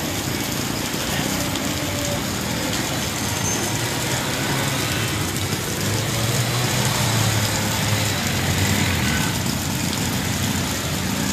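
Steady rain hiss with road traffic; a vehicle's engine hum grows louder about six seconds in and fades again about three seconds later.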